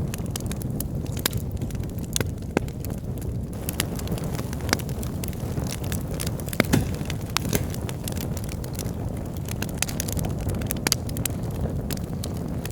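Wood fire burning in a fireplace: a steady low rush of flames with irregular crackles and pops from the burning logs, one louder pop about two-thirds of the way through.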